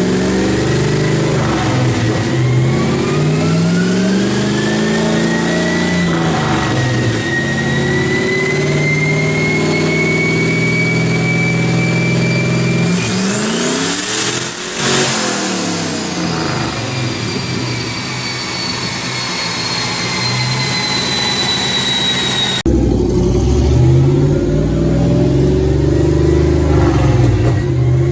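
Turbocharged 5.2 L Magnum V8 in a Dodge Dakota making a full-throttle pull on a chassis dyno, with the turbo whine rising steadily as the revs climb. It peaks with a brief high whistle about halfway through, then winds down. Near the end the sound cuts abruptly to the engine pulling again.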